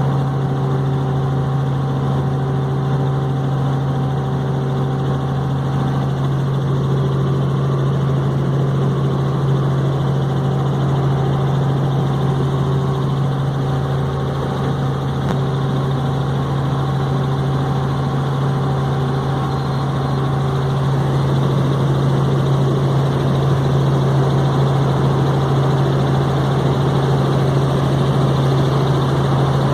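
Helicopter in flight: rotor and engine running with a steady low drone, a little louder in the last third.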